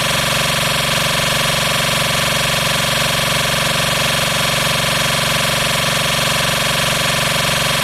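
A long, steady horn tone blasted through a DJ sound system: one unchanging low, buzzing pitch with many overtones, held at full volume.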